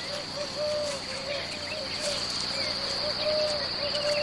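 Forest ambience: a steady, high-pitched insect drone, with a string of short, low repeated calls coming a few a second and faint bird chirps here and there.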